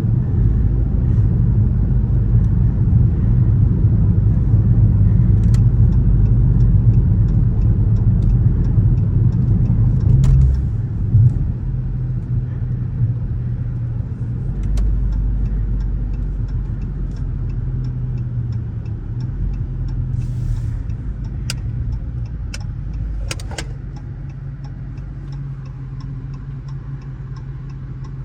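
Dodge Charger R/T's 5.7-litre HEMI V8 pulling hard for about ten seconds, then easing off and falling away to a cruise. Through the second half a turn-signal indicator ticks steadily, about two to three clicks a second.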